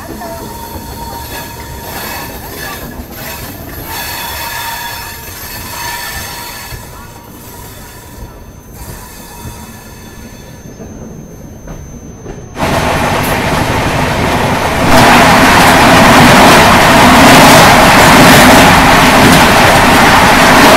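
Ispat Express rolling slowly out of the station, its wheels squealing with a thin whine over a low rumble. About twelve seconds in it cuts abruptly to a much louder steady rush as the Gorakhpur–Shalimar Express passes close alongside at speed on the adjacent track.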